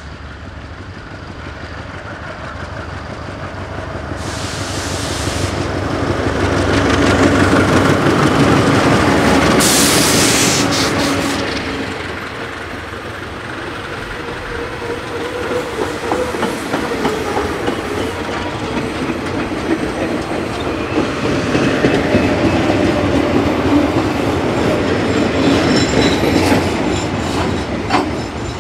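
A pair of SAR Class 35 diesel-electric locomotives hauling a weed-killer spray train past, loudest about seven to eleven seconds in, with two short bursts of hiss. Then the spray coaches and wagons roll by, wheels clicking over the rail joints.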